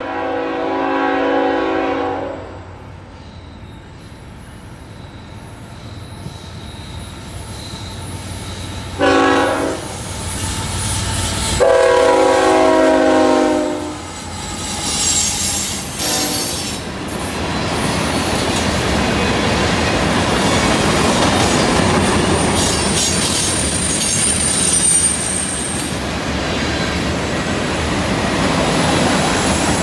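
Diesel freight locomotive horn sounding three times: a blast at the start, a short toot about nine seconds in and a longer blast about twelve seconds in, over the rumble of the approaching locomotives. Then freight cars roll past with steady wheel noise and high-pitched flange squeal from taking the curve.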